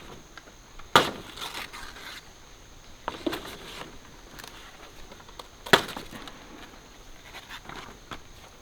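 Two sharp chopping strikes about five seconds apart, with a few lighter knocks between them, each followed by brief rustling.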